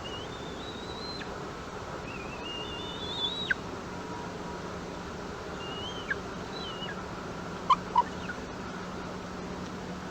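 Thin whistled bird calls over a steady hiss: three drawn-out notes that step upward and then drop sharply, followed by two short, louder chirps about three-quarters of the way in.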